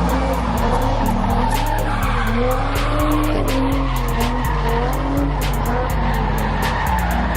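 A car doing a burnout: the engine revs up and down while the tires squeal and skid. Music with a heavy stepping bass line and rapid hi-hat ticks plays at the same time.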